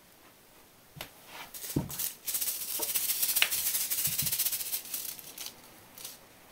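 Sugar granules rattling inside a paper sugar packet as a cat bats it about. A few light taps come first, then a dense rattle lasting about three seconds.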